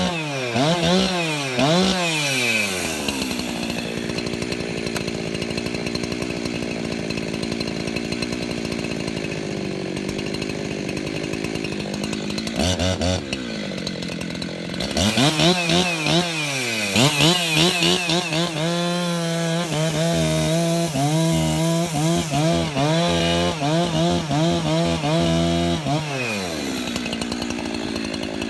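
Husqvarna 372XP two-stroke chainsaw: revs die down to a steady idle in the first few seconds, it is blipped briefly around the middle, then run at high revs with a wavering pitch for about ten seconds before dropping back to idle near the end.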